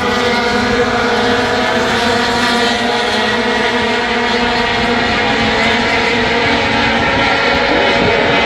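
Several race truck engines running hard together on the track, a steady drone of overlapping engine notes.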